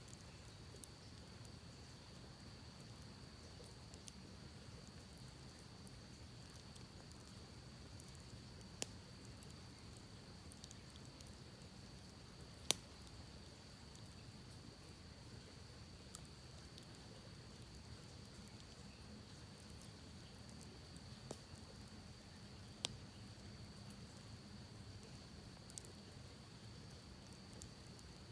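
Campfire crackling softly, with sparse sharp pops from the burning wood and one loud snap about halfway through. A faint steady high-pitched drone runs underneath throughout.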